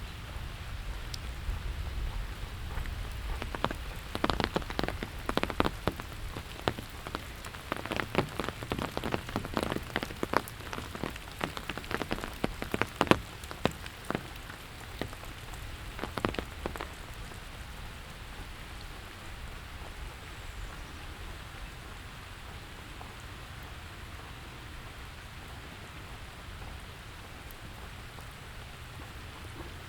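Steady rain falling, with a spell of many sharp, close drip taps from about four seconds in until about seventeen seconds, and a low rumble in the first few seconds.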